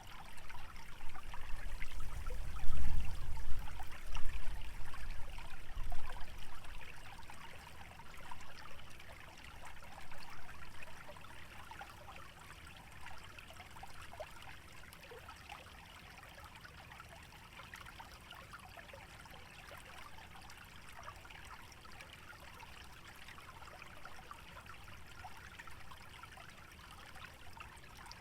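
Small wetland stream trickling steadily. During the first six seconds a gusty low rumble of wind on the microphone rises over it, loudest about three seconds in, then dies away and leaves the trickle alone.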